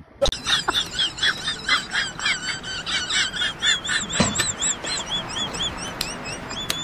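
Small birds chirping: rapid high, arching chirps that come densely at first and thin to about three a second. A single knock sounds about four seconds in.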